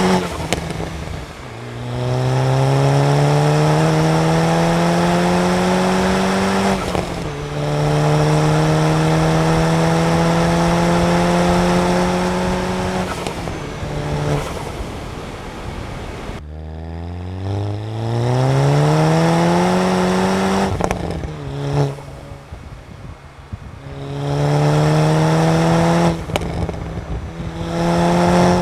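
Stage 2 tuned Volkswagen Golf MK6 GTI with its 2.0-litre turbocharged four-cylinder accelerating hard through the gears: engine pitch climbs, then drops sharply at each of several upshifts. About two-thirds of the way in the engine note cuts off briefly on a lift-off before pulling up through the revs again.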